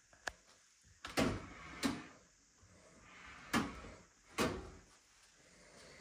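Doors being opened and shut: a light click, then four solid clunks spread over a few seconds.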